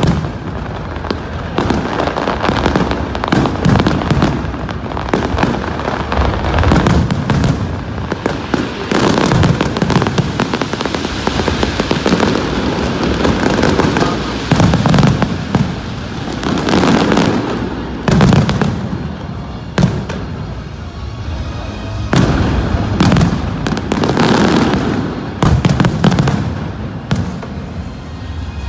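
Aerial fireworks display: a continuous barrage of shells bursting with deep booms and sharp bangs, crackling in quick succession.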